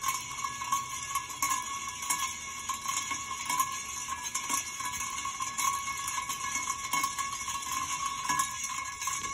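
Alaska ceiling fan running at a steady speed with a constant high-pitched squeal and faint irregular ticks. The squeak comes from a screw loose inside the fan's housing.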